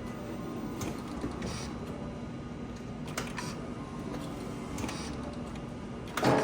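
A 2017 BMW 330e giving only a few short clicks over a steady low hum as the start is tried, with a louder sharp click near the end. The car does not crank: the sign of a failing small 12-volt battery in the front.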